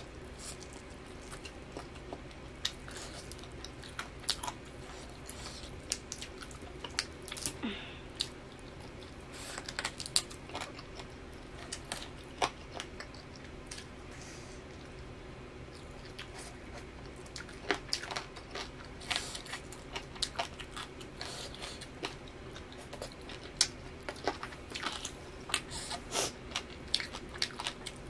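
Close-miked eating: chewing and biting into pan-grilled chicken, with many short wet mouth clicks and smacks scattered throughout over a faint steady hum.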